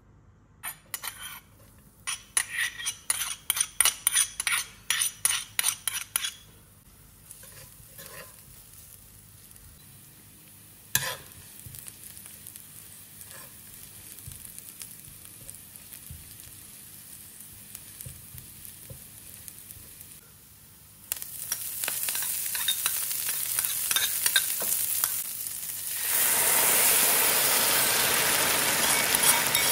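Garlic sizzling gently in hot olive oil in a frying pan, stirred with a metal spoon; the frying gets louder about two-thirds of the way through and much louder near the end as canned whole tomatoes go into the hot pan. In the first few seconds there is a quick run of about a dozen sharp strokes.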